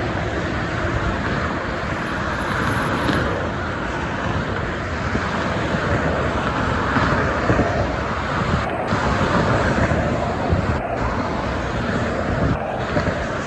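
Steady expressway traffic noise: the engines and tyres of passing trucks and cars blend into one continuous wash of sound that swells slightly in the middle.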